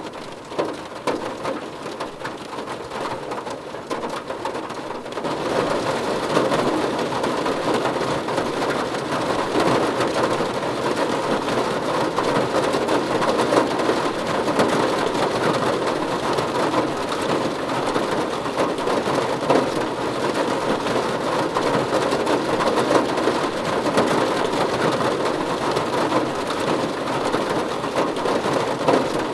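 Steady rain falling, a dense hiss of drops that grows heavier and louder about five seconds in, then holds steady.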